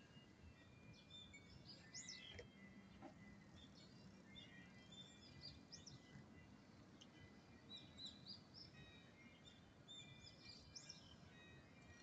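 Faint birds chirping: many short, scattered calls and quick up-and-down whistles, over a faint low hum that fades after the first few seconds.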